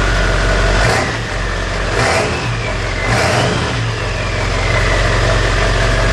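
Truck engine running, blipped up three times about a second apart early on, its pitch sliding up and back down, then settling to a steady run.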